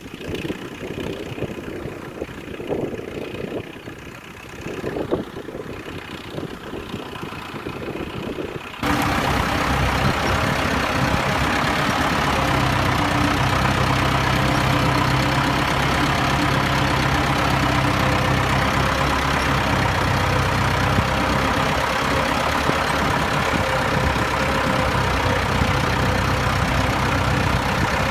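Ford tractor engine running. It is quieter and uneven at first, then about nine seconds in it becomes suddenly much louder and holds a steady, even drone.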